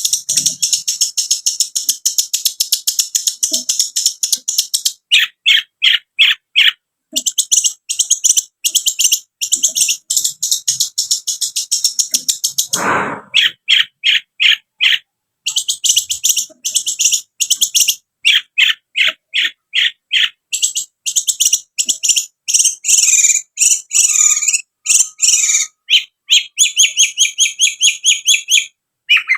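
Long-tailed shrike (cendet) singing: long runs of rapid, sharp, high chattering notes broken by short pauses, with one lower falling sweep about halfway through.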